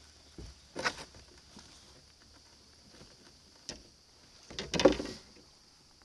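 Knocks and splashes from handling and paddling a plastic fishing kayak: a short cluster about a second in, a single click a little before four seconds, and the loudest cluster around five seconds, over a steady high hiss.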